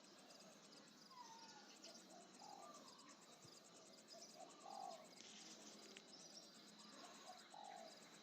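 Faint outdoor ambience: an insect, likely a cricket, trilling in rapid, evenly spaced high pulses, with short, low bird chirps scattered through.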